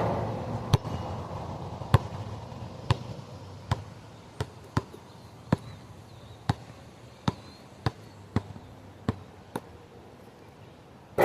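A basketball strikes a metal hoop, which rings, then the ball bounces on hard ground in a string of separate, irregular knocks, and a second shot clangs off the ringing rim at the very end.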